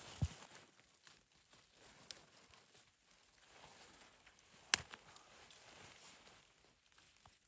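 Scattered handling noises: a low thump just after the start, a click about two seconds in and a sharp louder click near five seconds, over faint rustling.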